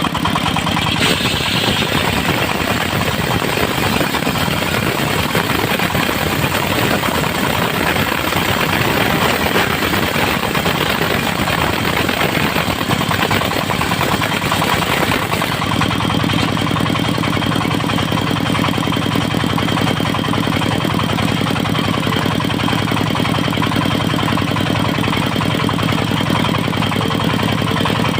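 Engine of a portable circular-saw sawmill running steadily. About halfway through the sound changes suddenly: the dense rushing noise drops away and the engine's even drone, with a thin high whine from the spinning blade, stands out more plainly.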